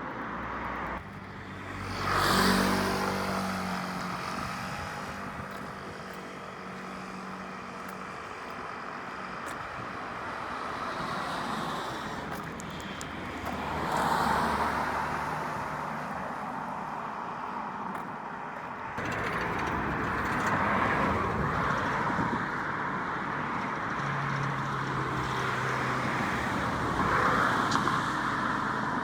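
Road traffic: motor vehicles passing one after another. The loudest pass, about two seconds in, carries a pitched engine note, and the traffic noise swells again near the middle and through the last third.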